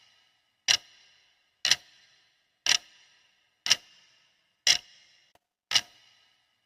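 Clock ticking steadily, one sharp tick per second, each with a brief metallic ring.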